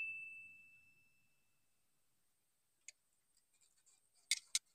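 The ring of a fishing rod's bite bell fading away in the first half second, signalling a bite. Then quiet, with a faint click about three seconds in and two sharp clicks near the end as the rod is handled.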